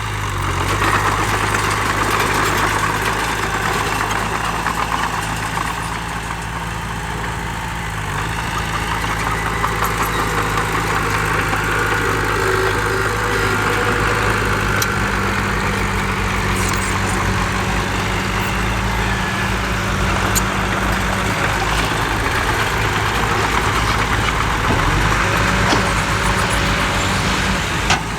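Heavy diesel engines of earthmoving machinery, a dump truck and a bulldozer, running steadily. The engine note rises about halfway through and drops back a few seconds later, with a few faint clicks of clatter on top.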